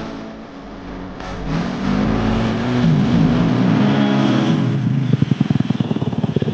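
Dirt bike engine revving, its pitch rising and falling, then dropping to a fast, even chugging at low revs about five seconds in.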